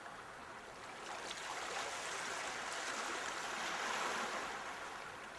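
Sea waves breaking and washing in: a rushing hiss that swells over the first few seconds, peaks, then ebbs away near the end.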